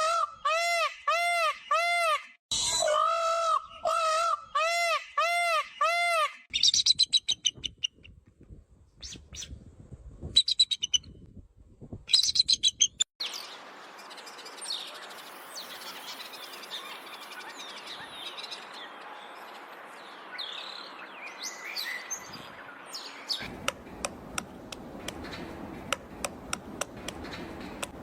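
Birds calling in a series of different sounds. First comes a run of loud, repeated calls that rise and fall in pitch, about two a second. Then come sharp high chirps and clicks, then softer chirping over a steady hiss, and rapid clicking near the end.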